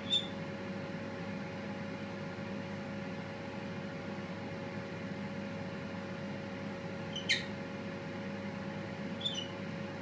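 Small pet parrot giving three short, high chirps: one at the start, one about seven seconds in and one near the end, over a steady background hum.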